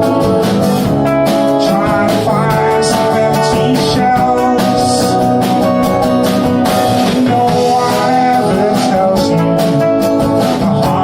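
Folk band playing live, with strummed guitar prominent and a steady rhythm.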